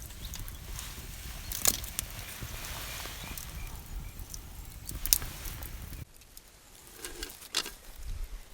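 Outdoor woodland ambience with a low rumble and scattered sharp clicks and snaps, the loudest about five seconds in. The background drops abruptly about six seconds in, at an edit.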